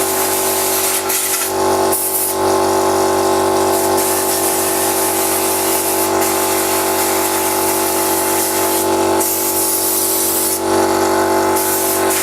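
Stabilo 24-litre oil-lubricated air compressor running steadily to recover pressure, while compressed air hisses out in long bursts as parts are blown off; the hiss drops away briefly about nine seconds in, then resumes.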